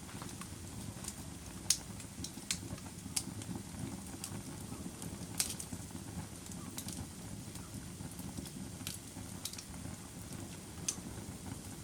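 Fire burning in a fireplace: a steady low rumble of flames with sharp crackles and pops at irregular intervals, the loudest pop a little under two seconds in.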